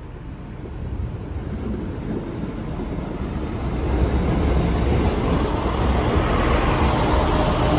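Rumble of an approaching train, growing steadily louder as it nears the level crossing.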